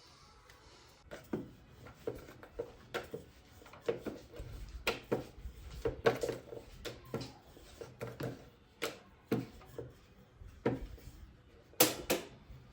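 A series of irregular knocks and clacks as household objects are handled and set down, with two sharp clicks near the end.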